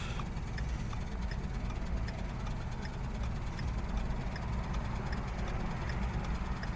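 Low, steady engine and road rumble inside the cabin of a 2010 Ford Focus with a 2.0-litre inline-four, with faint light ticks about twice a second.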